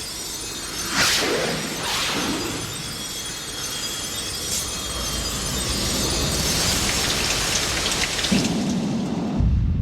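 Sound-effect intro to a music video: two quick whooshing swells, then a rushing noise that slowly grows louder, with a faint thin tone in the middle. A deep low rumble cuts in just before the end.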